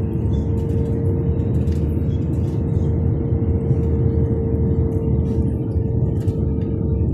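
Airliner cabin noise during the landing approach: a steady low rumble of engines and airflow with a constant droning hum over it.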